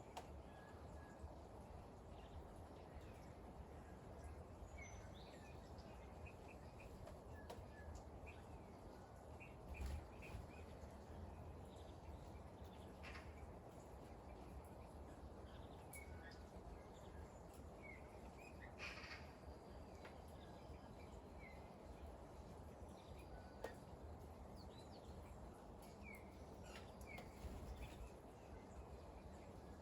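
Faint outdoor ambience: a steady low hiss with small birds chirping now and then.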